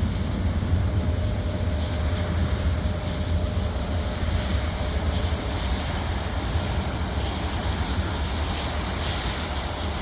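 Jet airliner engines running with a steady, deep rumble.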